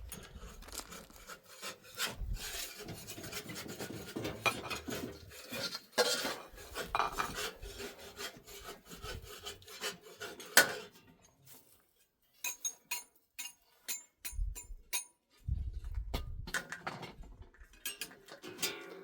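Irregular rubbing and scraping with knocks, broken by a short pause, then a run of sharp clicks and more scraping.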